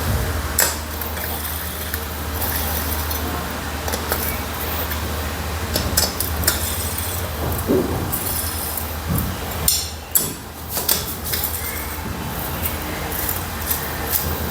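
Irregular metallic clinks and clatters of hand tools and steel bolts as engine cover bolts are threaded in and snugged down, over a steady low hum.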